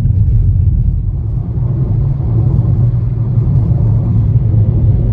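Steady low rumble of a car driving on the road, heard inside the cabin: tyre and engine noise.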